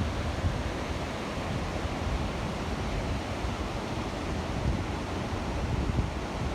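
Waterfall pouring steadily: a constant, even rush of falling water with a fluttering low rumble underneath.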